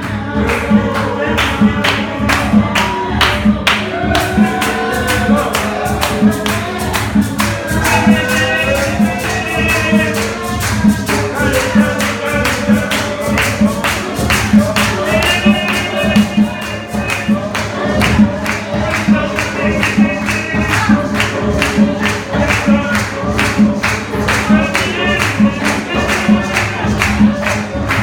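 Live gospel music: voices singing over a band, with a tambourine keeping a steady fast beat.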